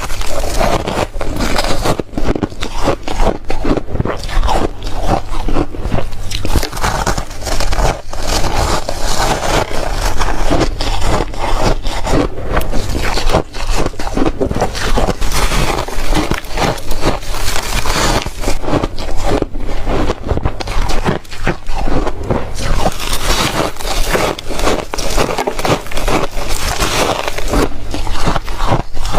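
Close-up chewing of reshaved refrigerator ice: a dense, continuous run of rapid, loud crunches and scraping bites, with a steady low hum underneath.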